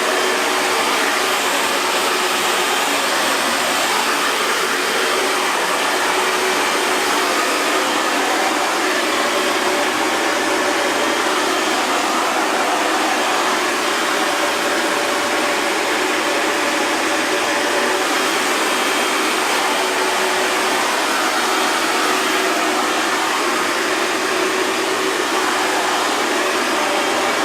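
Hair dryer running steadily: an even rush of blown air with a faint motor hum underneath.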